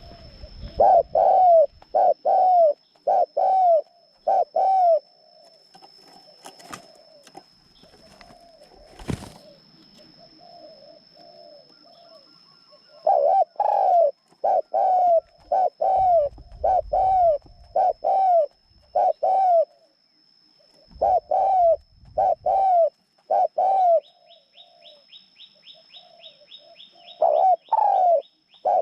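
Caged decoy bird calling in bouts of short, arching notes, about two a second, with pauses between bouts. A faint steady high whine runs underneath, and a fast high ticking joins in near the end.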